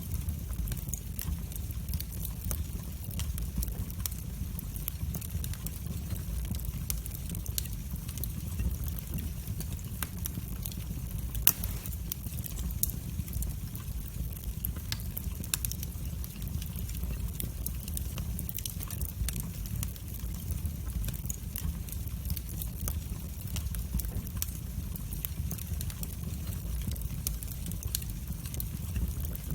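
Wood fire burning in a fireplace, crackling with frequent small sharp pops over a steady low roar, and one louder pop about eleven seconds in.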